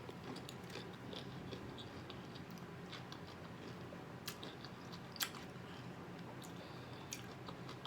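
Close-up mouth sounds of a person chewing and biting cotton candy-coated pickle, with scattered soft wet clicks and a couple of sharper crunchy snaps, over a faint steady hum.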